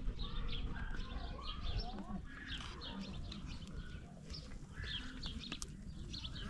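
Small birds chirping again and again over a steady low rumble, with a single sharp click a little after halfway.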